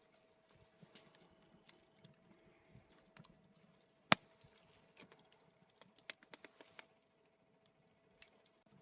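Faint scattered clicks and crackles, with one sharp snap about four seconds in and a quick run of clicks a little after six seconds.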